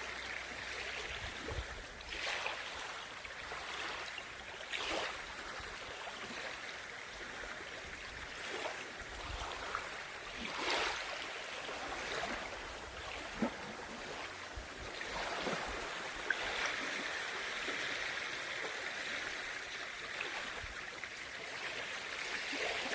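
Lake water lapping and splashing gently at the shore: a steady wash with small splashes every few seconds.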